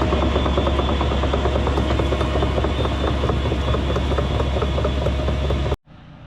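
Diesel engine of heavy land-clearing equipment running steadily under load, loud and rattly. It cuts off suddenly near the end, leaving a much quieter engine sound.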